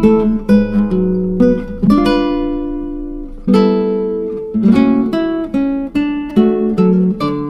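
Background music played on a plucked acoustic guitar: a melody of picked notes and strummed chords, each note ringing and fading, with a brief lull about halfway through.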